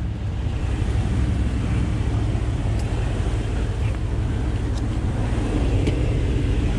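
Truck engine and road noise while driving off, a steady low rumble.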